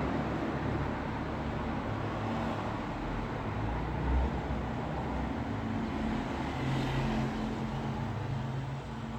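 Road traffic noise: a steady low rumble of passing vehicles, with one swelling louder as it goes by about seven seconds in.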